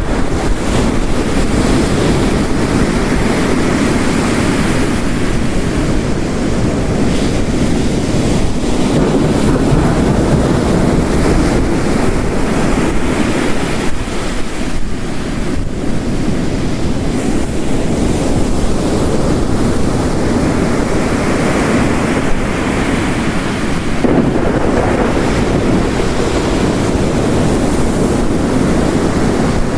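Heavy rain mixed with ocean waves crashing on a shore, a continuous dense wash of water noise that swells and recedes every several seconds as the surf rolls in.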